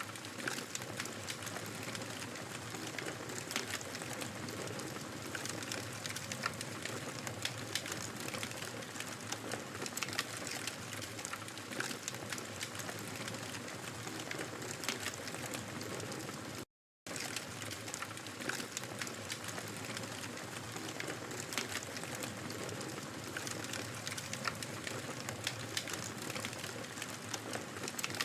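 Wood fire crackling in a fireplace: a steady hiss and rustle of burning with many small sharp pops and snaps scattered throughout. The sound cuts out to silence for a split second about two-thirds of the way through.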